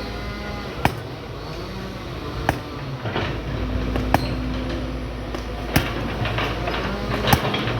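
Excavator's diesel engine running, with sharp knocks about every second and a half.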